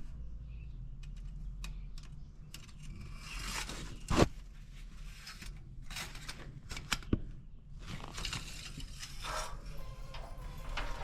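Scattered light clicks and knocks of parts being handled, with one sharp knock about four seconds in and a smaller one about seven seconds in, over a low steady hum.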